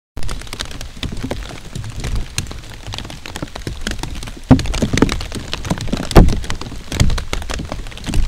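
Heavy rain falling on a tarpaulin shelter: a dense, steady patter of drops, with a few louder single hits about four and a half, six and seven seconds in.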